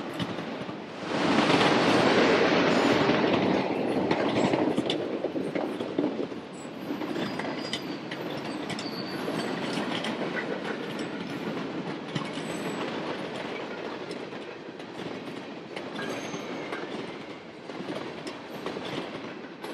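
Freight train cars rolling past: autorack cars and then tank cars, their wheels clicking over the rail joints. Loudest for a few seconds near the start, then steadier, and fading at the end as the tail of the train goes by.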